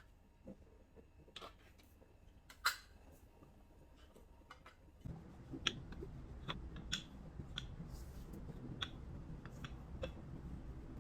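Faint scattered clicks and light taps, typical of kitchen handling sounds. A low steady hum comes in suddenly about halfway and continues.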